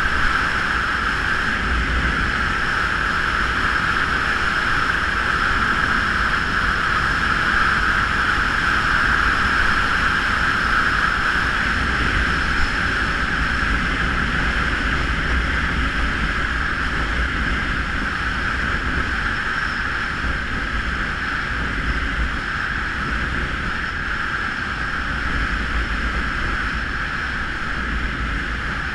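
Geon Scrambler 250 motorcycle under way at a steady speed: an even engine drone mixed with riding noise, holding steady throughout.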